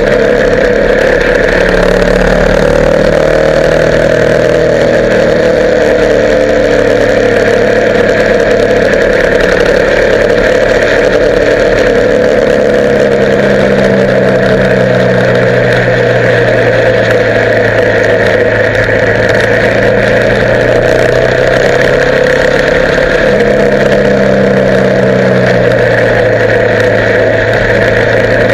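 Motorcycle engine running on the move, its note drifting gently up and down with engine speed over a steady, loud rush.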